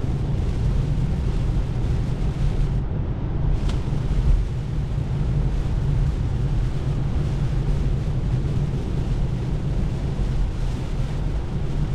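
Steady wet-road noise inside the cabin of a 2024 Tesla Model 3 driving through heavy rain on the highway: tyres hissing through standing water, with spray and rain on the car and no engine note. There is a brief click about four seconds in.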